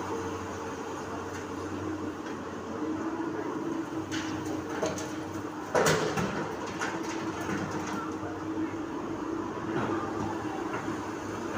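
Komatsu PC200 excavator's diesel engine running steadily, with a single loud metallic clank about six seconds in and a few lighter knocks around it.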